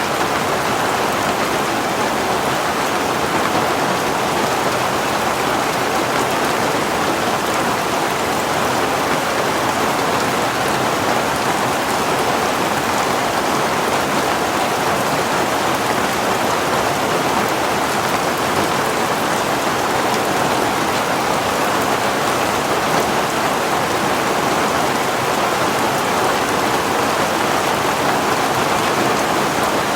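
Heavy rain falling steadily, an even unbroken hiss of drops on a surface.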